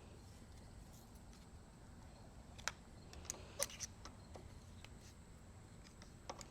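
A few light sharp clicks and taps of bike parts and tools being handled, bunched together about three seconds in with one more near the end, over a faint steady room hum.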